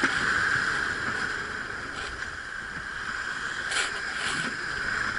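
A small ferry boat's engine running steadily, with wind and sea noise; two short sharp noises come about four seconds in.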